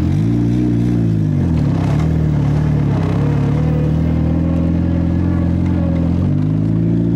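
Turbocharged car engine heard from inside the cabin, pulling away at low revs while still warming up. The pitch rises and falls in the first second and a half, holds steady, then climbs again near the end. A faint rising whine runs above it midway.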